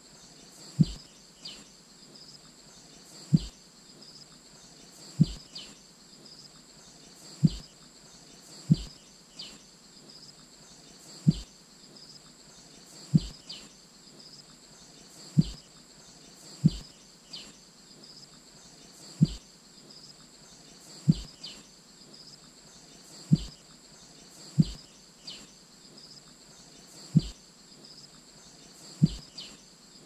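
Black-headed bulbul calls: short, falling high notes repeated about every two seconds. Each comes with a loud, low, brief thump just before it, and a steady high-pitched hum runs underneath.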